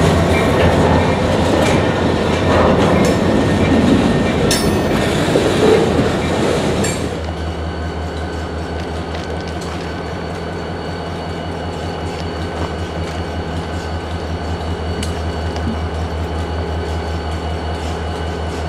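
A freight train of autorack cars rolls past with a loud rumble of wheels on rail and a few sharp clicks of wheels over joints. About seven seconds in it cuts off abruptly to a quieter, steady low hum.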